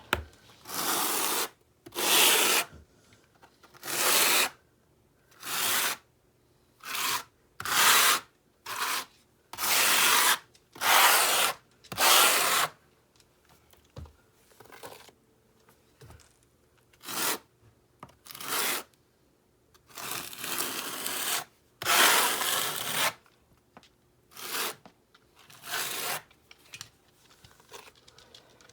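Repeated rough scraping strokes, about fourteen of them, each lasting roughly a second with short pauses between, from hand work on river rock and mortar.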